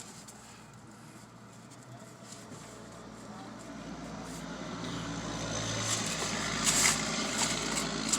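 A car's engine running close by, growing steadily louder over several seconds, with a rush of noise and a few clicks near the end.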